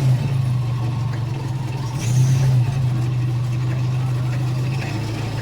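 A miniature zoo train's engine running with a steady low drone, heard from aboard the train. The drone swells briefly about two seconds in.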